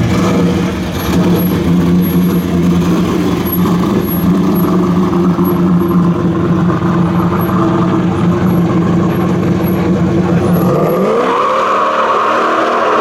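Car engine running loud and steady at held revs, then revving up near the end, its pitch rising.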